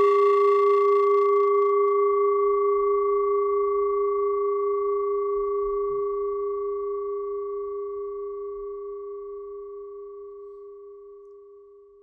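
A struck meditation singing bowl ringing out. Its deep hum carries a few clear overtones that waver gently, the higher ones dying away first, and the whole tone fades slowly to nothing at the very end.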